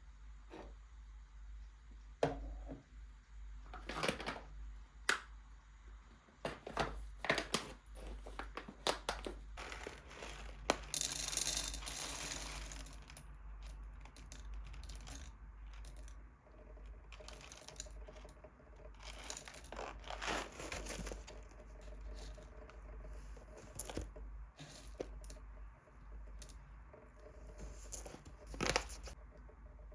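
Objects being handled: scattered light taps and clicks, with a longer rustling, tearing sound about eleven seconds in.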